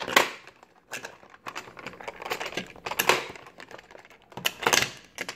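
Toy cars and plastic truck haulers being handled, clicking and clattering against each other in a run of irregular sharp knocks.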